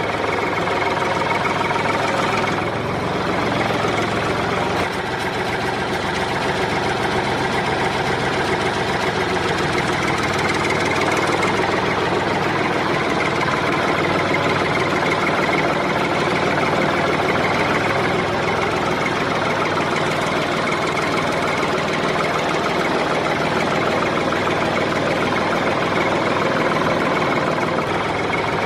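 Small engine of a DIY mini tractor running steadily with a fast, even chugging.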